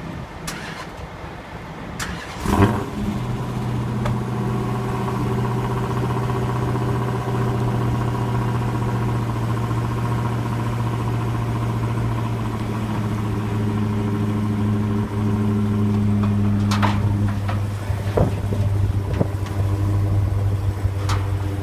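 Dodge Challenger SRT Hellcat's supercharged 6.2-litre V8 starting about two and a half seconds in with a brief loud flare, then idling steadily. A few sharp knocks come near the end.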